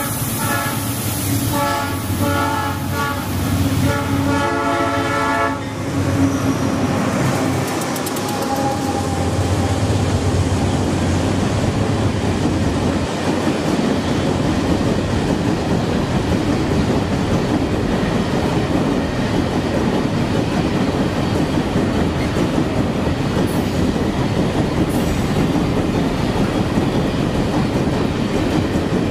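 Diesel-hauled iron-ore freight train approaching and passing close by: its horn sounds in several blasts over the first six seconds, then the locomotives and a long line of ore wagons roll past with a steady loud rumble and clickety-clack of wheels over rail joints.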